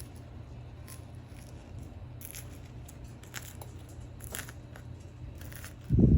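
Scattered small clicks and clatter over a steady low hum, ending in one loud, brief, low thump about six seconds in.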